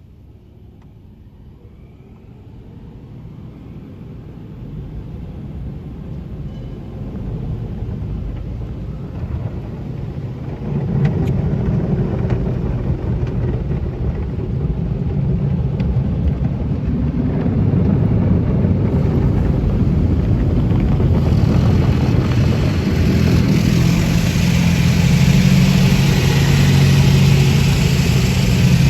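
Tunnel car wash machinery working on a car: a rumbling, rushing noise that builds steadily louder, with a low hum joining about a third of the way in and a hiss added about two-thirds through.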